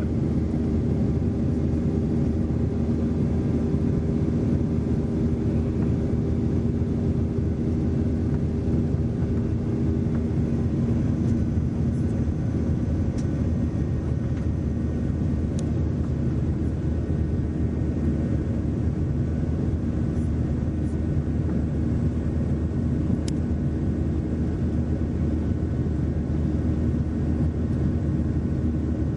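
Steady drone of a jet airliner heard from inside the passenger cabin: engine and airflow noise, deep and unchanging, with a constant low hum.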